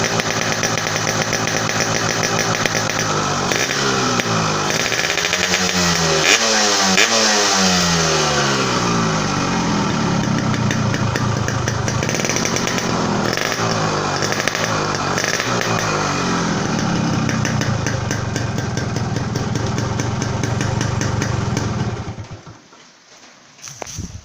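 Yamaha RX-S two-stroke single-cylinder engine running through an exhaust with a homemade baffle insert made to sound like an Altec aftermarket muffler. It idles, is revved up and down several times, then idles again and is switched off near the end.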